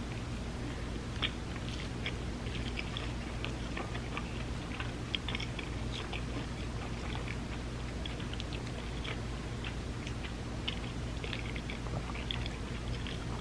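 A person chewing a mouthful of vegan spam musubi: many small, irregular mouth clicks and smacks following one another, over a steady low hum.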